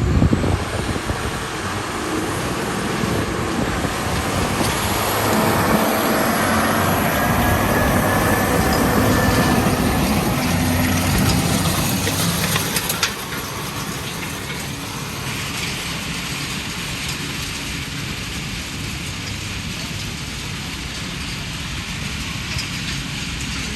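Heavy tractor engine running as it pulls a large tillage implement through the dirt pulling track. The sound is steady and loud, then drops off abruptly about 13 seconds in to a lower steady noise.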